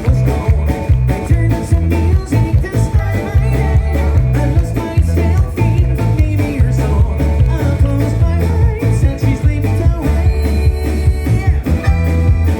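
Live rock band playing loud and amplified, with a driving bass and drum beat, guitars and a singing voice.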